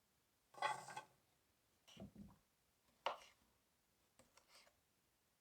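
Faint handling noises while stew ingredients are being prepared: a short rustle, then a soft low knock about two seconds in and a light click about a second later.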